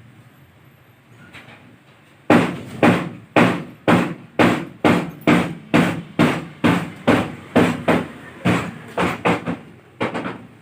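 Hammer blows on a metal engine part during an engine teardown, about seventeen sharp strikes at roughly two a second with a short ring after each, starting about two seconds in.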